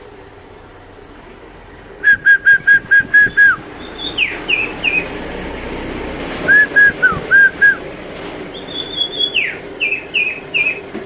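A sirtu songbird singing loud whistled phrases. After about two seconds of quiet it gives a fast run of about seven clear notes, then high falling notes, another quick run of notes a little past the middle, and more high falling notes near the end.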